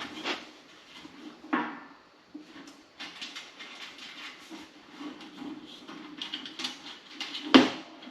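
Sander parts and hardware being handled during assembly: scattered knocks and clatter with rustling, the loudest knock near the end, over a faint steady hum.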